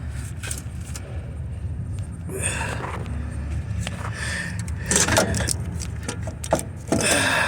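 Metal clinking and scraping in three short bursts, about two, five and seven seconds in, over a steady low hum: a starter motor being worked out from between a bar and the catalytic converter under the car.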